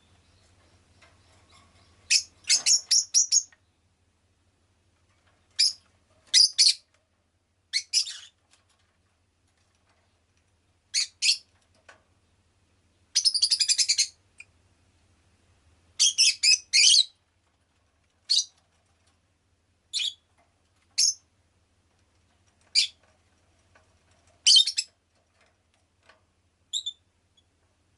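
Rosy-faced lovebird calling: short, loud, shrill chirps in quick bursts, with pauses of a second or two between bursts.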